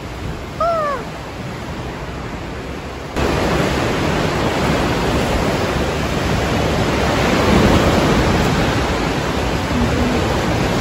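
Rushing wind and sea noise on the microphone as a small open boat rides through rough, choppy waves; it jumps abruptly louder about three seconds in. A brief cry of a voice comes just under a second in.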